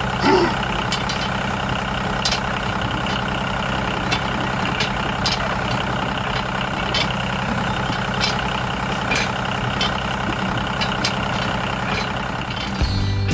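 An engine running steadily at idle, with scattered light clicks.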